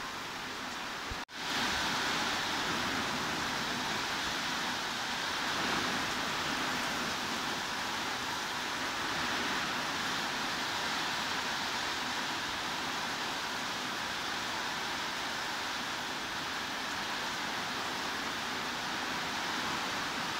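Steady heavy rain, an even hiss with no separate drops standing out. About a second in the sound cuts out for an instant, then carries on slightly louder.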